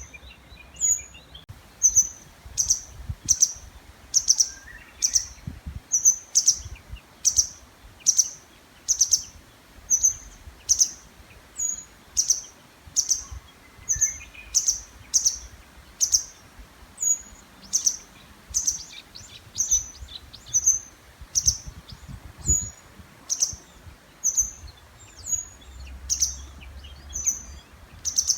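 A small songbird repeating a short, sharp, very high call about once a second, calling persistently in the breeding season.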